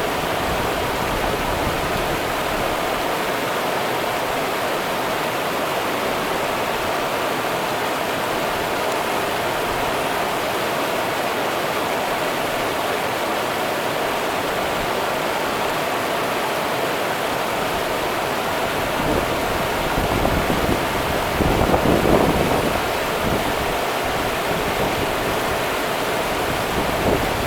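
Rio Grande river water running, a steady rushing flow. Louder low surges come between about 20 and 23 seconds in.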